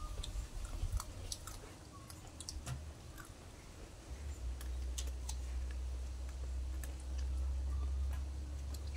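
People eating fish curry and raw cucumber with their hands: close chewing with scattered short, sharp mouth clicks. A steady low rumble comes in about four seconds in.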